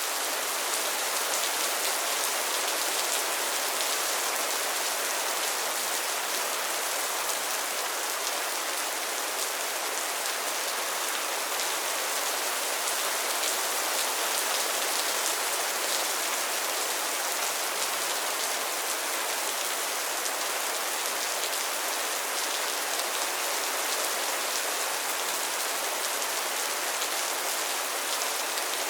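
Steady rain falling on a pond's water and lily pads: a dense, even patter of drops with no change in strength.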